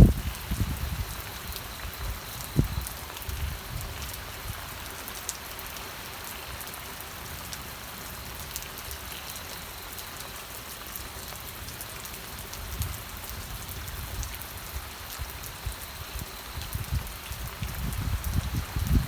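Steady rain falling, an even hiss with scattered drop ticks, with low rumbling surges near the start and again near the end.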